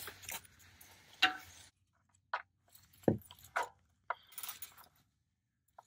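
A 3/8-inch ratchet with a 13 mm socket tightening an oil drain plug: a few scattered metallic clicks and knocks of the ratchet and socket, fairly faint.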